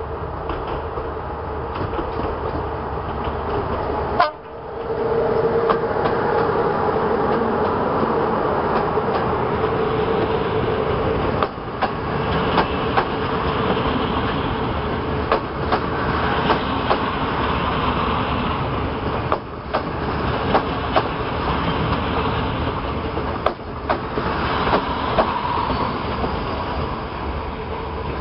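Electric locomotive and a long train of passenger coaches passing close by on the adjacent track: a steady rolling rumble with many sharp clicks as the wheels run over rail joints.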